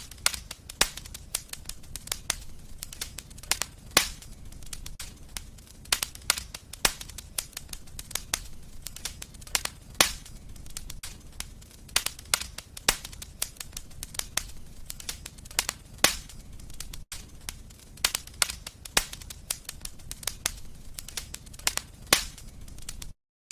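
Wood fire in a fireplace crackling: many sharp, irregular pops and snaps over a low, steady rumble of the flames, with a brief dropout near the end.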